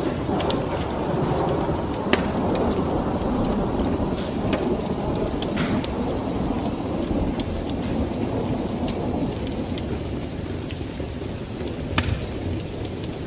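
Wood fire crackling in a fireplace, with sharp pops scattered through a steady low rushing noise; the loudest pops come about two seconds in and near the end.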